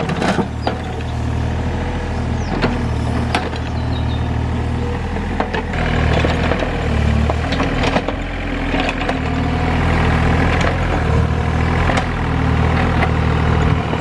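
Excavator's diesel engine running steadily, its note stepping up and down with the load. Scattered sharp knocks and clicks sound over it.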